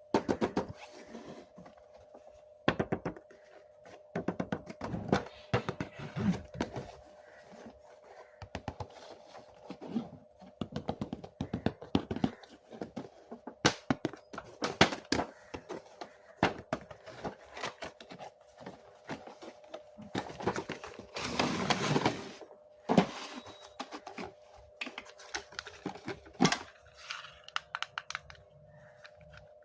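Plastic toys and packaging being handled: irregular clicks and knocks, with a longer scraping rustle about two thirds of the way through.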